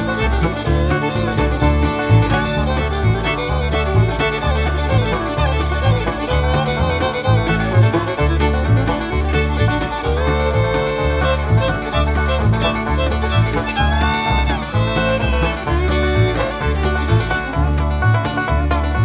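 Instrumental background music in a bluegrass style, with fiddle and banjo over a steady, rhythmic bass beat.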